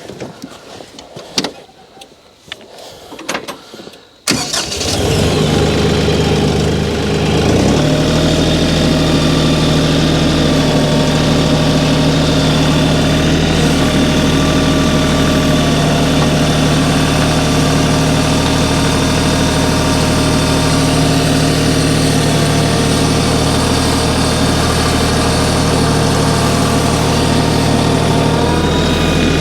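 A few clicks and knocks, then about four seconds in a tractor engine is started; it catches at once, settles within a few seconds and then runs steadily.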